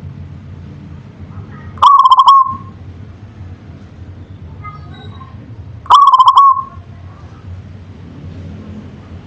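Zebra dove (perkutut) cooing twice, about four seconds apart, each call a quick run of staccato notes ending in a held note, with a fainter call in between. A low steady hum runs underneath.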